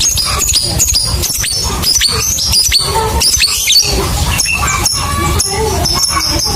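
Lovebird chattering in a rapid run of high, shrill chirps and short falling squeaks, settling into a fast, even trill near the end: the long 'ngekek' chatter of a lovebird in full song.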